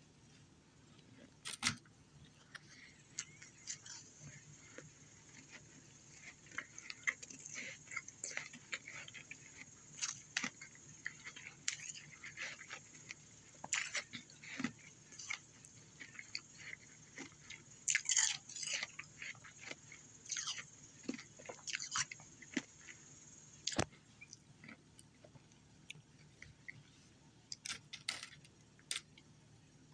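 A person chewing ice close to the microphone: irregular crisp crunches, coming in clusters of quick bites with short pauses between, the loudest about two-thirds of the way in.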